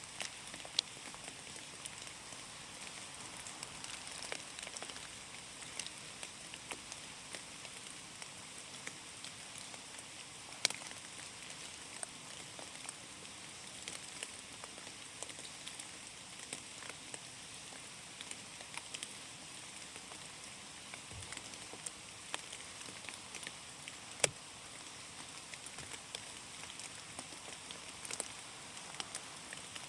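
Rain falling on a forest, a steady hiss with scattered drops tapping on leaves, some of them louder and closer.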